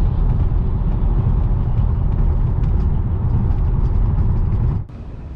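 Loud low rumble of a running engine, cutting off suddenly near the end.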